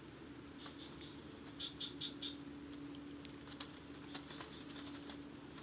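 Night insects, crickets, trilling steadily in a high, pulsing chorus over a low steady hum. Scattered light clicks and taps come through, and a quick run of four short high chirps sounds about two seconds in.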